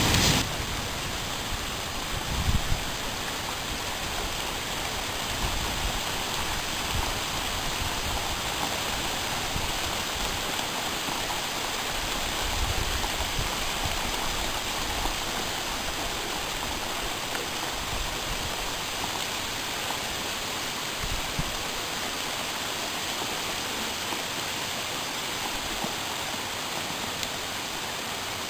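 Steady thunderstorm rain falling as an even, unbroken hiss.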